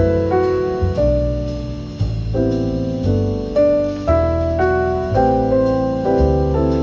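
Background piano music: a slow melody of held notes over a bass line.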